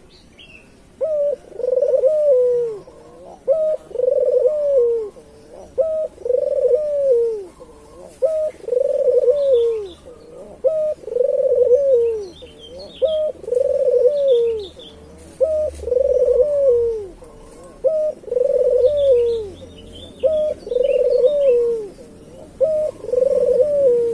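Local puter dove (a turtle dove) cooing over and over, about every two and a half seconds. Each coo is a short note followed by a longer rising-and-falling one. Faint high chirps of other small birds sound in the background.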